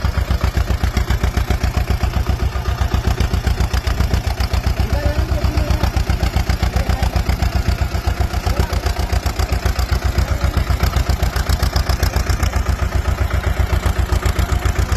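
A tractor's diesel engine running with a fast, steady chug.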